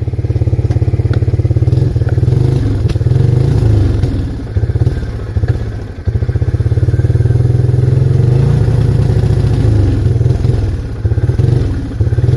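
Arctic Cat 366 ATV's single-cylinder engine running under way, with the throttle easing off and coming back on a few times.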